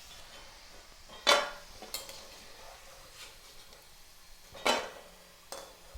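Metal strainer spoon knocking and scraping against a kadhai as fried kurkure are lifted out of hot oil: four clanks, the loudest about a second in, over a faint steady sizzle.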